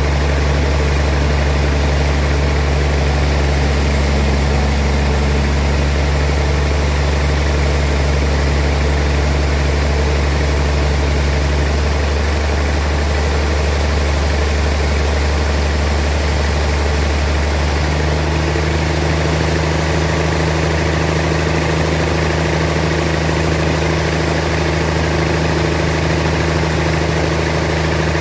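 Sawmill machinery running steadily with a low, engine-like hum. The tone shifts abruptly about two thirds of the way through.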